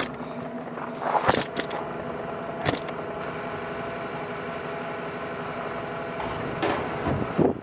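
A steady engine hum, with a few short knocks or clunks over it.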